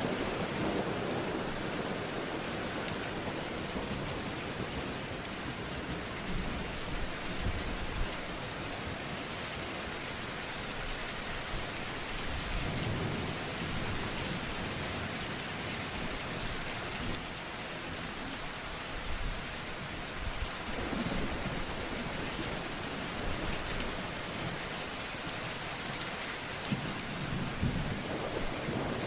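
Steady heavy rain hissing, with low rumbles of thunder swelling up several times.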